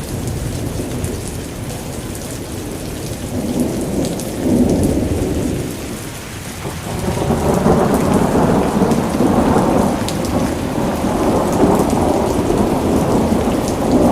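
Steady rain with rolling thunder: a rumble swells about four seconds in, fades, then a longer, louder one builds from about seven seconds on and keeps going.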